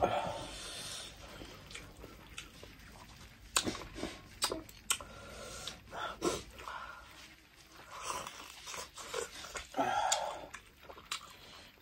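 Close-miked eating sounds of people eating goat meat and rice by hand: chewing, lip smacks and scattered wet clicks, with a breathy rush of air about a second in.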